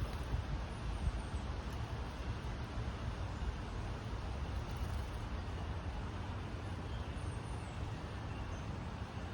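Steady outdoor background noise, a low rumble under a hiss, like distant road traffic. A few faint, high, short chirps come about seven seconds in.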